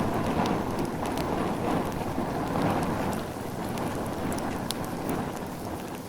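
Bonfire burning: a steady low roar of flames with scattered sharp crackles and pops.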